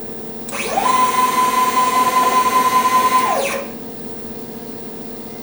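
DIY CNC router's stepper motors jogging the gantry out of the way: a whine that rises in pitch as the axis speeds up, holds steady for about three seconds, then falls in pitch as it slows to a stop.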